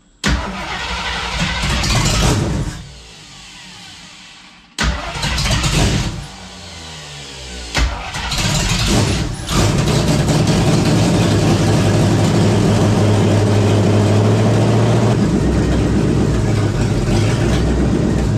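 AMC 360 V8 in a 1976 Gremlin being started: it catches and falls back in several surges, then settles into steady running about ten seconds in. It runs poorly, which the owner suspects is off ignition timing.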